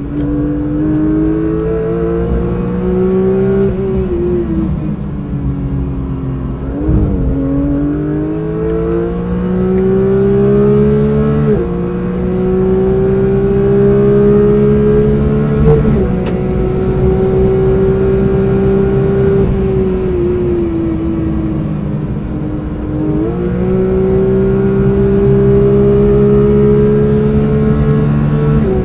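Porsche 992 GT3's naturally aspirated flat-six heard from inside the cabin at full throttle, its pitch climbing and then dropping sharply at each upshift, three times. About four to seven seconds in, the note falls and dips as the car lifts for a corner, then picks up again.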